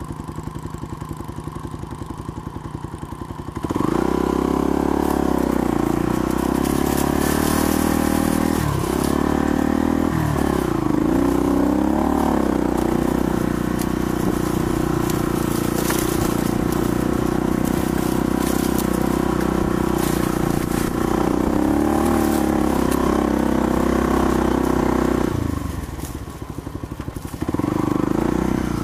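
Small off-road engine running under throttle. It is softer at first, then opens up sharply about four seconds in and holds a steady loud run with small changes in pitch. It eases off briefly near the end, then picks up again.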